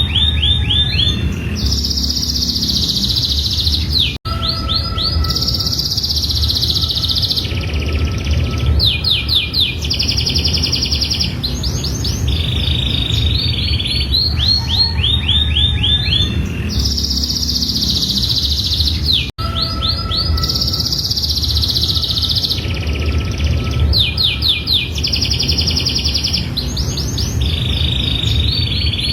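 Domestic canary singing a long, continuous song of rapid trills and rolls in phrases of a second or two, changing from one phrase type to the next. The same stretch of song repeats about every fifteen seconds, as a looped recording.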